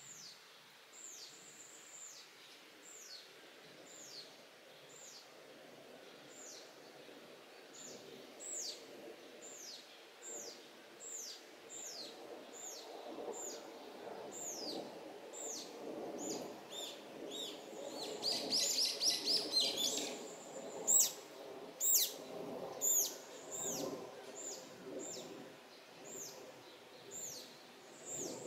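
Small birds calling: a high, downward-sweeping call repeated about once a second, with a quick trill of rapid notes about two-thirds of the way through.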